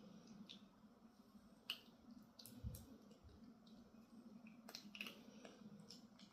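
A dog eating: faint, scattered clicks and crunches of chewing, spaced irregularly.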